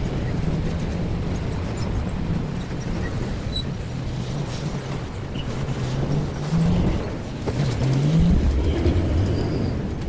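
A road vehicle's engine running with a low, steady hum over traffic rumble. Its pitch climbs briefly twice near the end.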